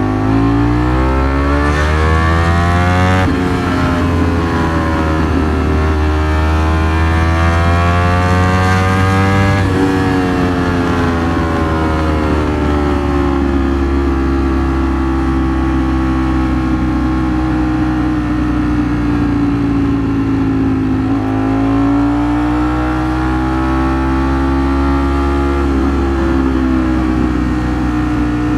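Ducati Streetfighter V4 S's V4 engine accelerating through the gears: the pitch rises, drops sharply at an upshift about 3 seconds in, rises again and drops at another shift about 10 seconds in. It then settles into cruising, the pitch slowly wandering, with a brief dip and pick-up about two-thirds of the way through.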